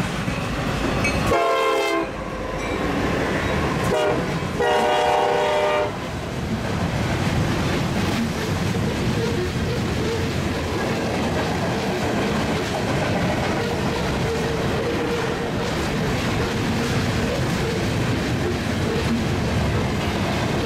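Freight locomotive horn blowing in blasts: one ending right at the start, a short one about a second and a half in, and a longer one from about four and a half to six seconds in. Beneath and after it, two Union Pacific freight trains, a double-stack container train and a tank-car train, roll past with a steady rumble and wheels clattering on the rails.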